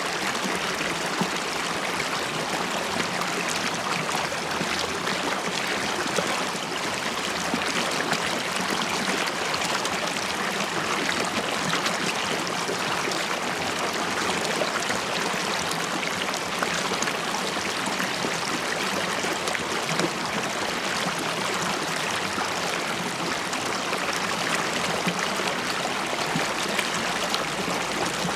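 Shallow river water flowing and burbling steadily, a dense even rush with small bubbling pops throughout.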